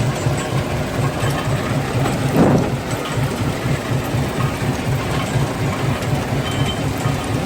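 Quarry stone-crushing machinery running steadily with a fast, even throb. There is one brief louder surge about two and a half seconds in.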